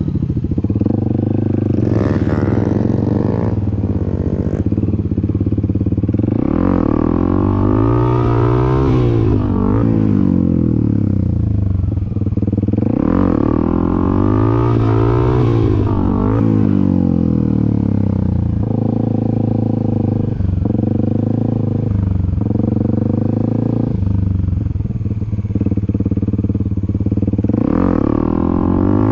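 Dirt bike engine running and revving as the rider throttles up to pop wheelies. Its pitch climbs and falls several times, with two longer climbing revs about a quarter and about half way through, and steadier running in between.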